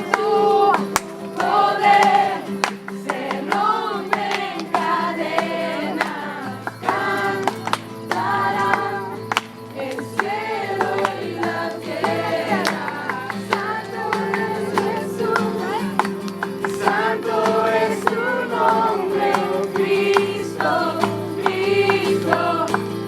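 A group of voices singing a Christian worship song together over steady held accompanying chords, with a deeper held note coming in about six seconds in.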